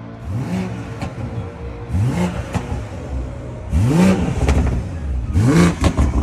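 Single-turbo BMW 335i's turbocharged inline-six blipped five times, each rev rising quickly and falling back to idle.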